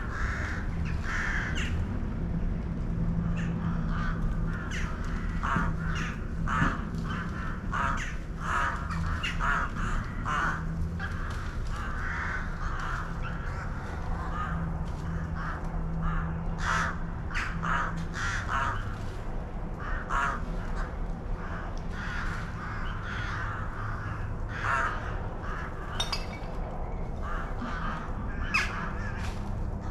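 Birds calling over and over: many short calls in quick succession, over a low steady background hum.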